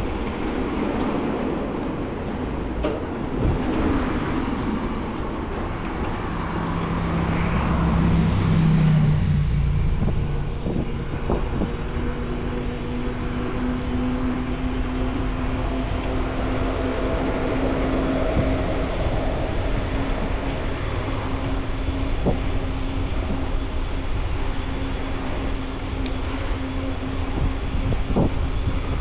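Riding noise from a bike-mounted camera: steady wind and tyre rumble, with a low, steady hum that starts about halfway through and a few knocks.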